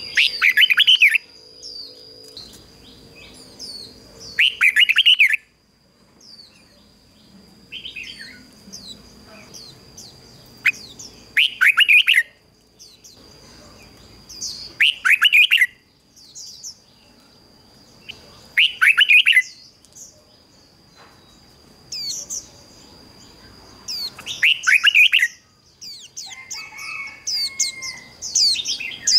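Red-whiskered bulbul singing short, loud warbled phrases, one every three to four seconds, over a faint steady high-pitched tone.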